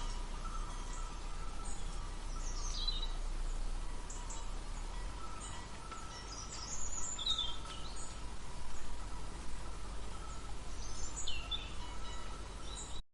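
Outdoor ambience: a steady background hiss with a few short bird calls, falling chirps heard about three times.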